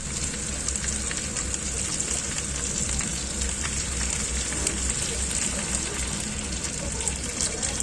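Chicken wings sizzling in a hot pan: a steady hiss with scattered crackles and pops.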